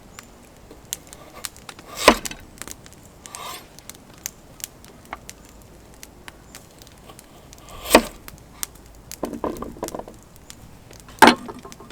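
Wood being chopped: three heavy, sharp strikes a few seconds apart, with small scattered crackles and clicks between them.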